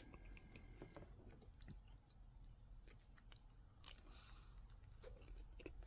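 Faint chewing with a few soft, scattered crunches: a mouthful of Nestlé Drumstick ice cream cone with its chocolate-and-peanut topping being eaten.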